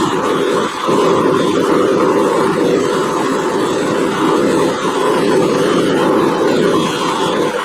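Electric polishing wheel running steadily while adjustable wrenches are buffed on it, the motor and spinning wheel giving a loud continuous whir with brief small dips as the work is pressed against it.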